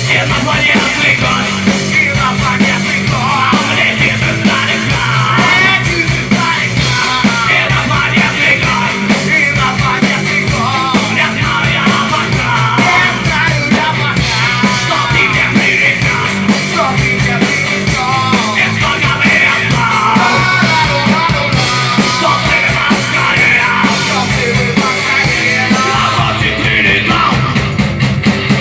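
Loud live rock music from a band playing a cover in a punk-rock style: drum kit, guitars and bass playing steadily without a break.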